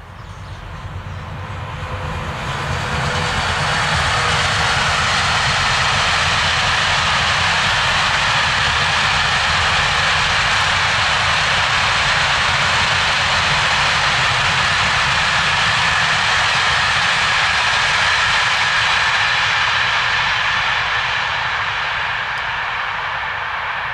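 Container freight train hauled by a BB 22200-class electric locomotive passing at speed: the rolling noise of wheels on rail builds over the first few seconds, holds steady as the long rake of container wagons goes by, and fades near the end.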